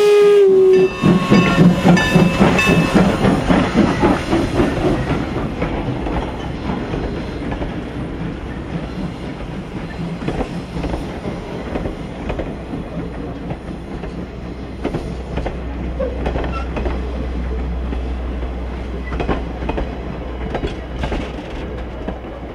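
A steam train's whistle ends with a slight drop in pitch under a second in. Then the train rolls past, its wheels clicking over the rail joints, and the sound slowly fades as it moves away.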